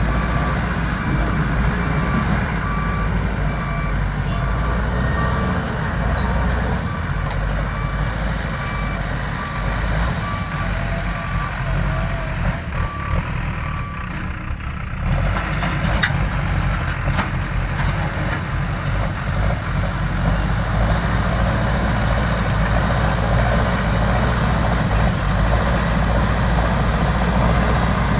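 JCB backhoe loader's diesel engine running, with its reversing alarm beeping at an even pace. The beeping stops about halfway through, and the engine then runs a little louder.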